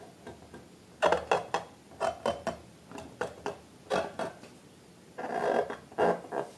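Close-up handling noises: irregular clicks and taps begin about a second in, and a short rubbing sound comes near the end.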